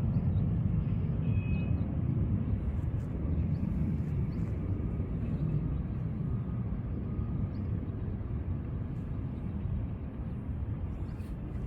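Steady low outdoor rumble, swelling slightly and easing off, with a brief faint high chirp a little over a second in.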